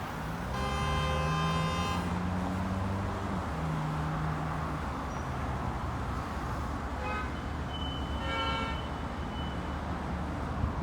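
Road traffic at a junction, with vehicle engines running. A horn sounds for about a second and a half near the start, and shorter horn-like tones come around seven and eight-and-a-half seconds in.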